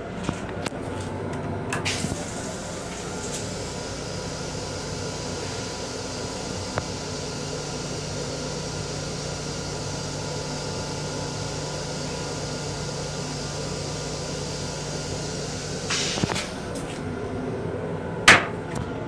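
Steady mechanical hum and rumble inside the restroom of a Metro-North M7 railcar. A low steady hum joins for several seconds in the middle, with a few light clicks and one sharp click near the end.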